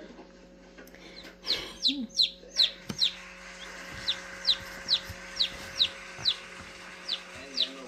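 Newly hatched bantam chick peeping repeatedly, starting a little over a second in: each peep is a short, high note that falls in pitch, about two a second. A steady low hum runs underneath.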